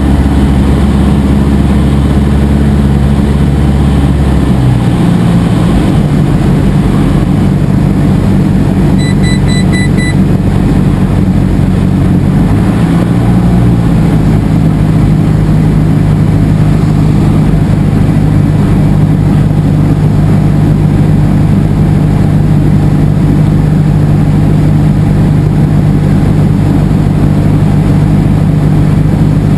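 Cessna 172SP's four-cylinder Lycoming engine and propeller droning loudly. The note shifts about four to five seconds in and again around thirteen seconds as the power setting changes. A brief high-pitched pulsing beep sounds about nine seconds in.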